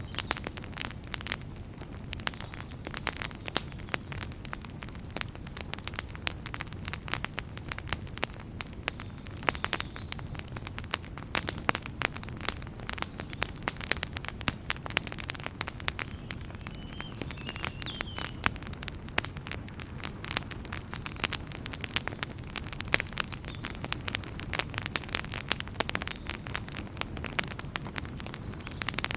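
Wood fire in a fireplace crackling steadily: dense, irregular sharp pops and snaps over a low, even rumble of burning.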